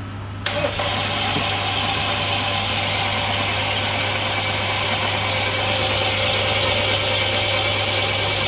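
BMW N20 2.0-litre turbo four-cylinder in an F30 320i being cranked by its starter motor without catching, a steady mechanical whirr that begins about half a second in: the engine has no compression and won't start.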